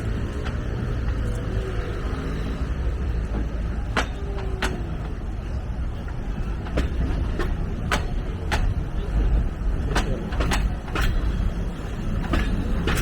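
Alishan Forest Railway SL21, a 28-ton Shay geared steam locomotive with vertical cylinders, running with a steady low rumble. Sharp knocks come through the second half, several about half a second apart.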